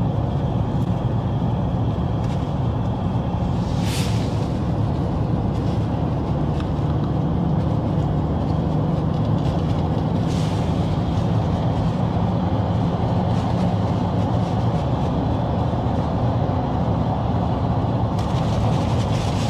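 Steady engine drone and tyre noise inside a car cruising along a highway, with two brief hissing swells about four and ten seconds in.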